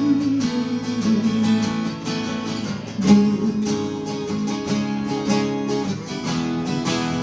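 Acoustic guitar strumming chords in an instrumental gap between sung lines of a song, with a stronger strum about three seconds in.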